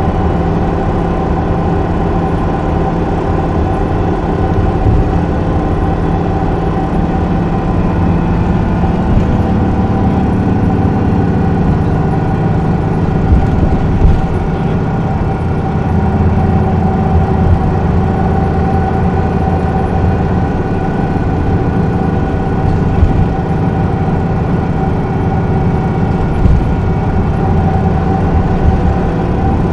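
Isuzu Erga city bus's inline-six diesel engine running at a fairly steady speed, a constant drone with a low rumble and small bumps now and then.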